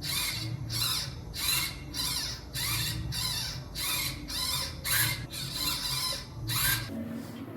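Repeated scraping strokes, about two a second, about a dozen in all, stopping about seven seconds in.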